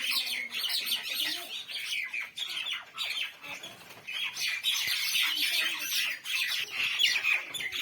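Mynah birds calling: a dense run of quick chattering and squawking calls, with a short lull about four seconds in.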